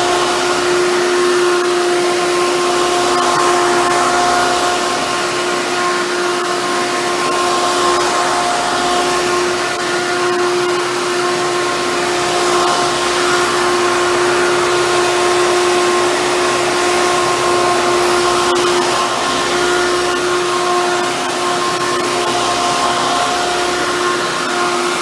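Hoover Bagless Twin Chamber upright vacuum cleaner running steadily, its motor whine held at one pitch over a rush of air.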